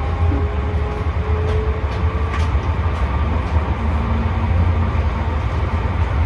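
Tram running along its line, heard from inside the car: a steady low rumble with a faint motor whine and a few light clicks from the wheels on the rails.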